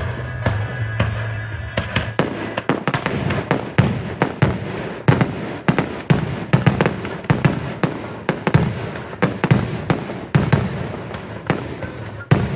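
Fireworks going off in a rapid, irregular barrage of sharp bangs and crackles, several a second, growing dense about two seconds in. A steady low tone runs under them and is most plain at the start.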